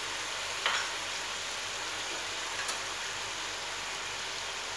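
Chicken pieces sizzling in melted butter in a nonstick wok: a steady, rain-like frying hiss. A brief, sharper sound stands out a little under a second in.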